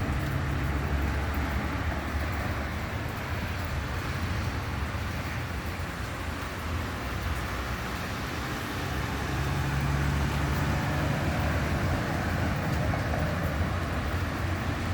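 Motor vehicle traffic: a steady low engine rumble that swells about nine seconds in, over an even hiss of road noise.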